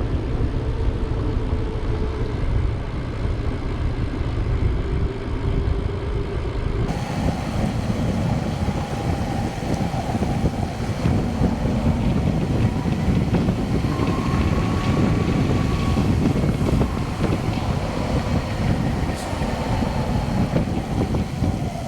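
Steady rumble of wind buffeting the microphone and tyre noise from a bicycle rolling along the road, with a faint thin tone wavering in pitch partway through.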